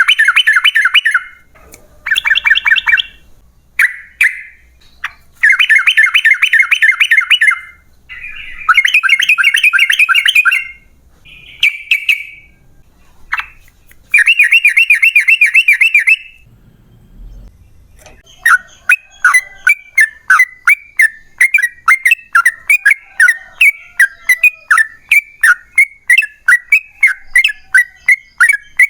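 Yellow-vented bulbul (trucukan) singing: loud bubbly, chattering phrases of a second or two each, separated by short pauses, then a long unbroken run of quick repeated notes at about three a second, the drawn-out 'ropel panjang' song.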